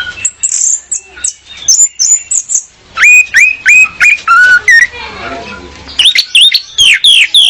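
Orange-headed thrush singing a loud, varied string of short whistled notes: thin high notes at first, then about five repeated upslurred notes at roughly three a second, and near the end a burst of sharp downslurred notes.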